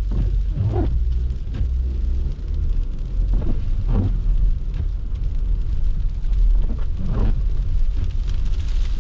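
Car driving on a snowy road: a steady low rumble of engine and tyres, with a short sweeping swish three times, about every three seconds.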